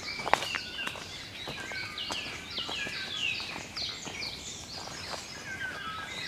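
Several wild songbirds calling and singing together in woodland, many of the notes quick falling whistles repeated in short series. Scattered sharp clicks and rustles run underneath, the loudest just after the start.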